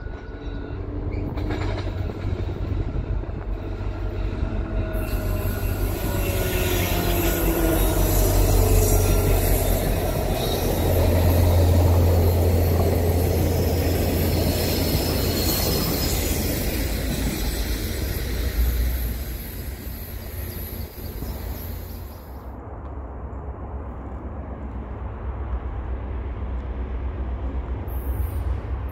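A train passing close by: a deep, heavy rumble that builds, peaks about eleven to fifteen seconds in and eases off after about nineteen seconds, with sliding, falling tones along the way.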